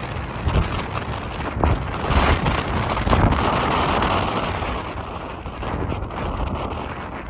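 Volcanic eruption roaring and rushing, mixed with wind buffeting the microphone, swelling louder about two seconds in and easing off near the end.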